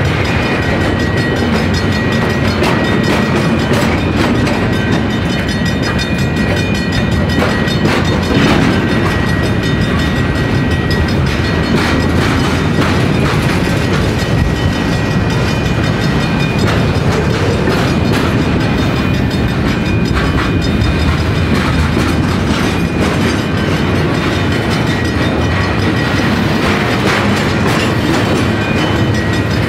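A train rolling past, a steady loud rumble and clatter of wheels on rail, with a thin steady high whine above it.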